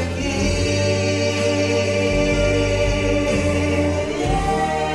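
Gospel vocal group holding a long sung note in harmony over instrumental accompaniment, the bass changing note about two seconds in and again near the end.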